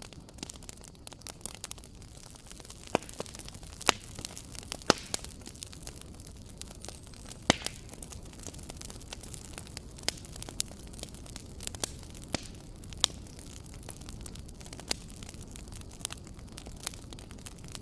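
Wood fire in a fireplace crackling: irregular sharp pops and snaps over a steady low rumble and hiss of the flames.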